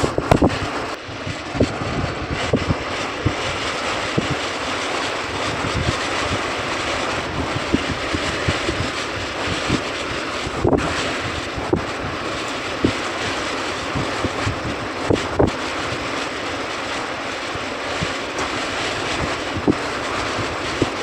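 Air conditioner blowing air: a steady rushing hiss, with scattered short low thumps every second or two where the airflow buffets the microphone.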